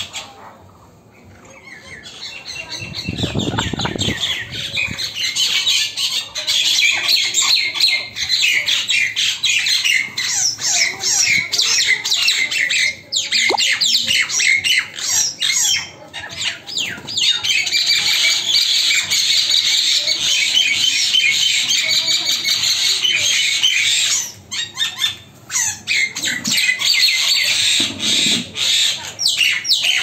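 Several small birds fighting, giving harsh, rapid squawking and chattering calls almost without a break, with a few short pauses.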